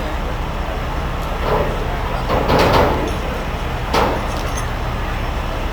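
Heavy truck engine running steadily at a low, even drone. A sharp knock comes about four seconds in, and a brief rush of noise comes near the middle.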